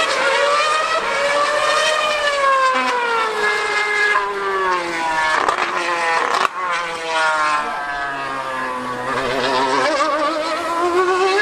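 2013 V8 Formula 1 car's engine screaming at high revs out on the circuit. Its pitch drops in steps through several abrupt breaks over the first two-thirds, then climbs steadily again near the end.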